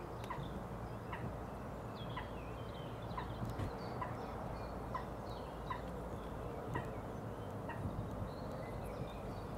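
A bird repeats a short call roughly three times every two seconds, with other small birds chirping higher up over a steady low background rumble.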